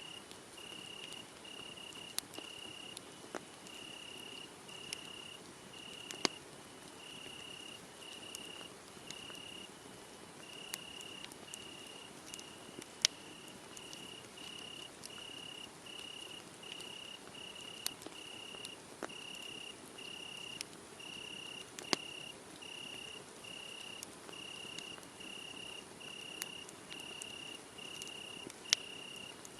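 Crickets chirping in a steady rhythm, about one and a half chirps a second, with scattered sharp pops from a crackling wood fire.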